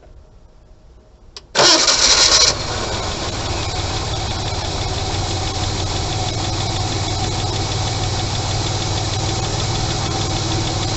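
Ford Granada's 2.3-litre V6 with a Solex EEIT carburettor being started: quiet, then about a second and a half in the starter cranks loudly for about a second, the engine catches, and it settles into a steady idle. The engine is already warm, its choke flap almost fully open.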